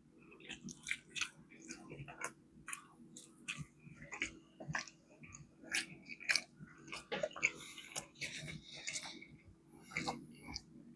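A person chewing fried chicken close to the microphone, heard as irregular short, sharp mouth clicks several times a second.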